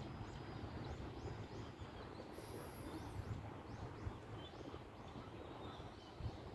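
A small bird repeating short, high-pitched call notes, about three a second, stopping a little past halfway, over a low steady rumble of outdoor background noise.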